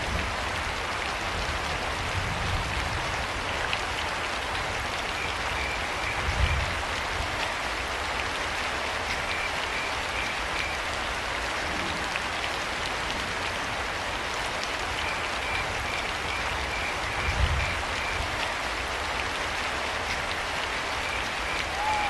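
Steady rain falling, with crickets chirping in short pulsing bursts every few seconds. Two brief low thumps stand out, about six seconds in and again near eighteen seconds.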